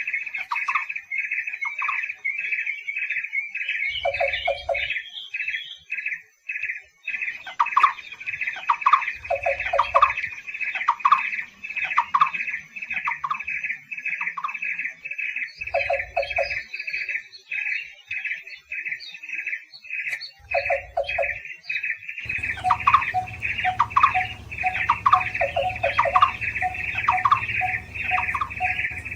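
Barbets calling: a fast, steady series of repeated notes, with lower notes and short trills mixed in from more than one bird. About 22 s in, a background hiss and hum comes up under the calls.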